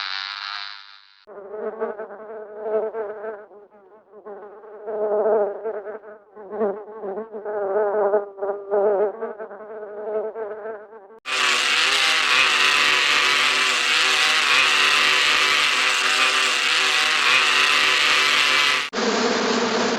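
Hanna-Barbera cartoon buzzing sound effects, insect-like: a wavering buzz that rises and falls for about ten seconds, then a louder, harsher steady buzz that cuts in suddenly, and near the end an abrupt switch to another buzz.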